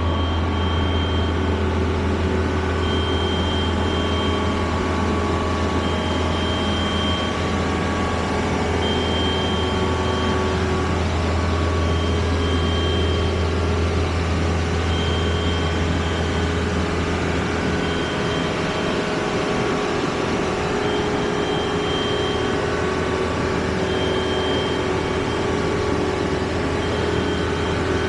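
Heavy engine running steadily, with a high warning beep sounding about every three seconds, each beep lasting a second or more.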